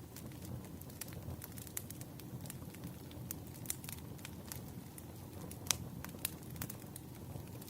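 Burning firewood crackling: scattered sharp pops over a low, steady rumble of the fire, with one louder pop about six seconds in.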